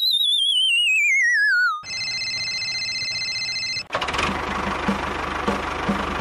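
Cartoon sound effects: a wobbling whistle sliding down in pitch, then a steady electronic tone for about two seconds. About four seconds in, it gives way to a small tractor engine running with a regular chug.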